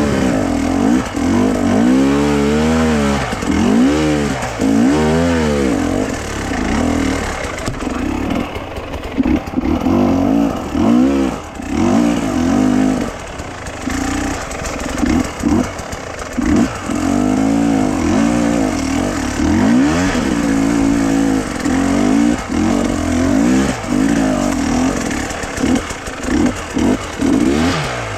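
A vehicle engine running under load, its pitch rising and falling over and over as the throttle is opened and eased off, typical of driving a rough track.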